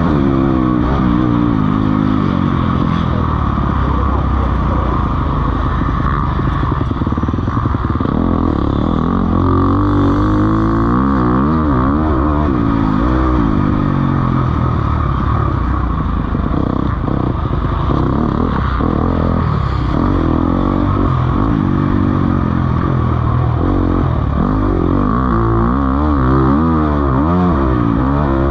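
Several motocross bikes racing, their engines revving up and down in overlapping rising and falling pitches as they accelerate, shift and roll off.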